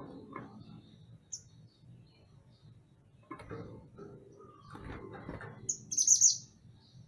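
Mantenan gunung singing: scattered short chirps and calls, then the loudest part, a quick run of high, rapid notes about six seconds in.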